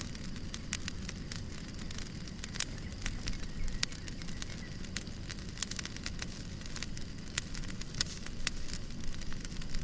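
Fireplace crackling: a steady low rumble of burning with irregular sharp pops and snaps scattered throughout.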